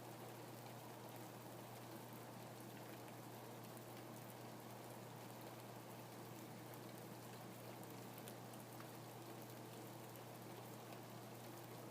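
Faint, steady rainfall, with individual raindrops ticking here and there over the even patter.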